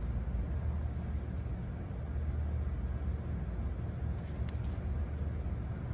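Steady, unbroken high-pitched trilling of insects in chorus, with a low, even rumble underneath.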